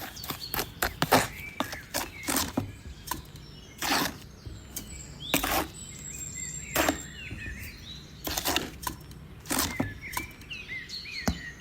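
A series of sharp clicks and knocks at irregular intervals, a dozen or more, with birds chirping in the background.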